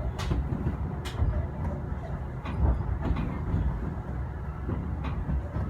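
Kintetsu electric train running, heard from inside the car as a steady low rumble. A few sharp clicks of the wheels over rail joints cut through it.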